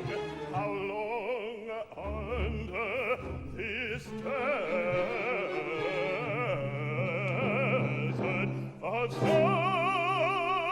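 Operatic singing with wide vibrato over an orchestra, a louder, higher voice coming in about nine seconds in.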